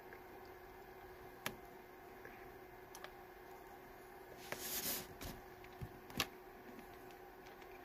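Quiet chewing of hard, frozen Mike and Ike chewy candies: a few sparse mouth clicks, a short hiss about halfway through and a sharper click soon after, over a steady faint hum.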